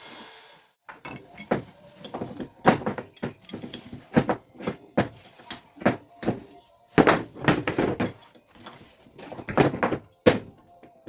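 A run of irregular knocks and clanks, a few a second, as of hand tools and parts being struck and handled during work on a truck air compressor.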